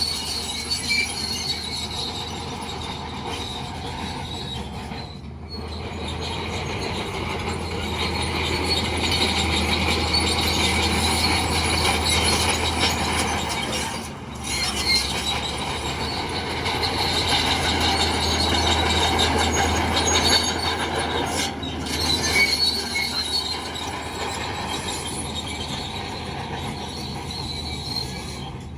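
Heavy earthmoving machinery working: a steady diesel engine drone under continuous high-pitched metallic squealing and scraping, typical of a bulldozer's steel crawler tracks.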